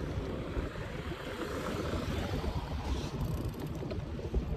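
Steady low rumble and road noise of a bike on the move.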